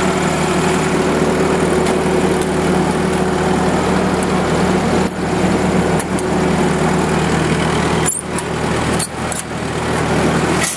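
1943 Minneapolis Moline anti-aircraft gun generator set running steadily at an even governed speed, its engine smooth and quiet. The level dips briefly a couple of times in the later seconds.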